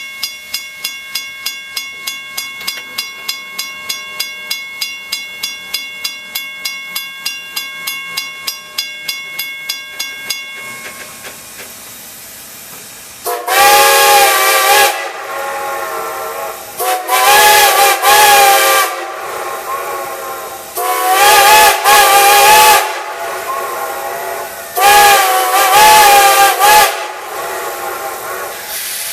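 Strasburg Rail Road No. 90, a Baldwin 2-10-0 steam locomotive. For the first ten seconds its bell rings steadily, about three strokes a second, then stops to a hiss of steam. Its chime whistle then sounds four blasts of about two seconds each, several tones together, with steam hissing between and after.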